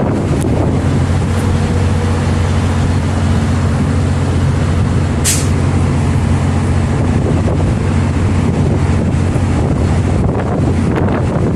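MBTA commuter-rail diesel locomotive running steadily with a deep, even engine drone. A short hiss of air comes about five seconds in.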